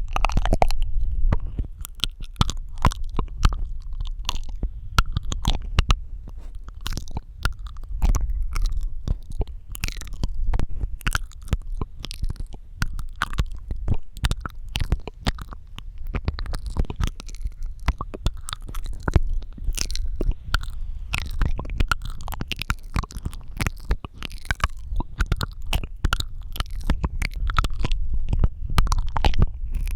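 Close-miked ASMR mouth sounds: a rapid, dense run of wet clicks, smacks and tongue pops, over a steady low rumble.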